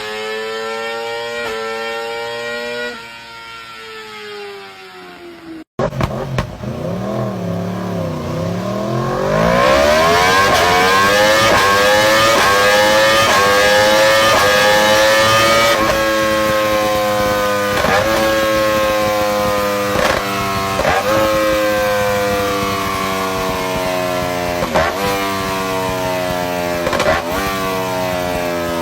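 High-revving sport motorcycle engine with a loud exhaust. For the first few seconds one engine note slowly falls, then after a sudden cut an engine revs hard, its pitch climbing steeply and then holding high. Through the rest, short breaks every second or two are quick gear changes.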